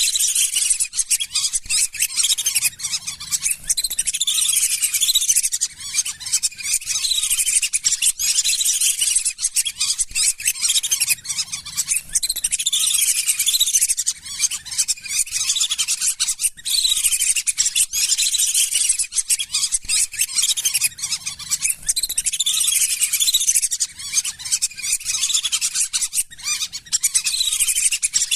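Lesser whistling ducks calling: a dense, unbroken chorus of many overlapping high whistles that rise and fall.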